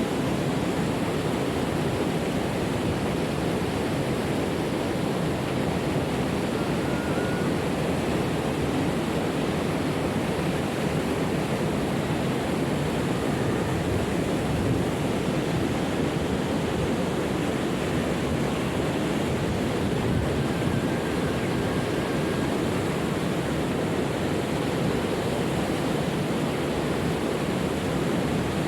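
Water of a waterfall rushing steadily, an even unbroken roar of falling water.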